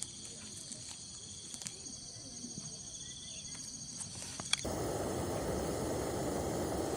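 Night insects such as crickets trilling steadily in high thin tones, with a few faint clicks. About four and a half seconds in, the sound cuts abruptly to a louder, steady rushing hiss.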